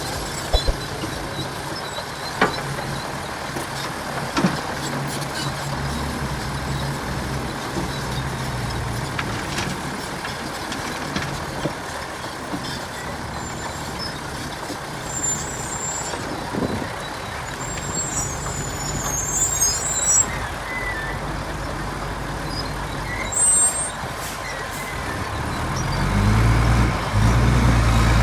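Heavy diesel earthmoving machinery running, a bulldozer and dump trucks, with a few sharp knocks. A deep engine note grows louder near the end.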